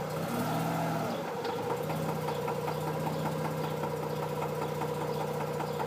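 Mazda RX-8's rotary engine idling with the transmission in gear. Its idle pitch wavers for about the first two seconds, then holds steady.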